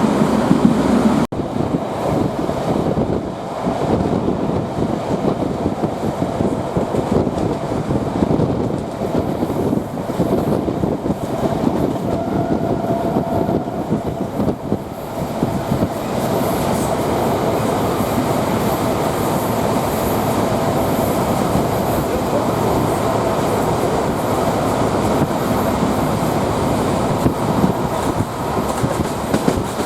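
A D1 diesel multiple unit running along the line, heard from on board: steady rolling noise and the clack of the wheels over the rail joints, with the diesel engine running underneath. The sound cuts out briefly about a second in.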